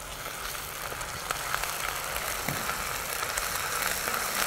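Chopped onions frying in hot oil in a pan as they brown, stirred with a ladle: a steady sizzle with fine crackles.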